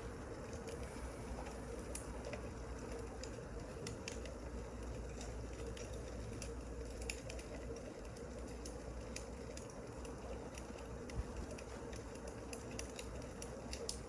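Wood fire crackling: irregular small pops and snaps over a steady low rumble and hum.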